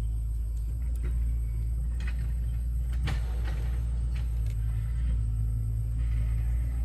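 A steady low rumble with scattered knocks and clicks, the loudest knock about three seconds in.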